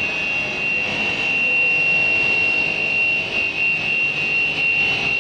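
Motors of a double-head aluminium cutting saw running with a steady high-pitched whine.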